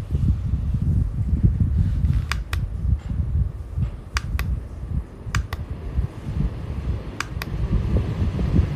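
Portable rechargeable desktop fan running, its airflow buffeting the microphone with a fluctuating low rumble. Sharp double clicks sound every second or two.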